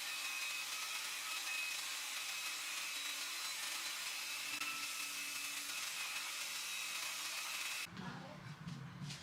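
Belt grinder running, its abrasive belt giving a steady hiss with a faint high whine. About eight seconds in it cuts off abruptly, and a lower, quieter hum follows.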